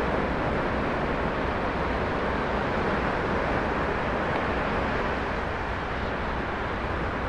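Steady roar of ocean surf, an even rushing noise with no separate breaks standing out.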